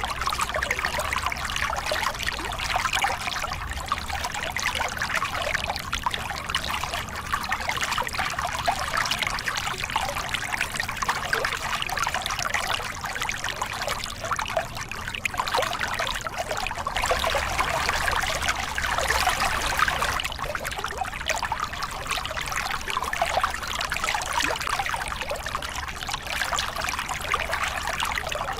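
Small river cascade: water pouring and splashing over rocks in a steady, unbroken rush.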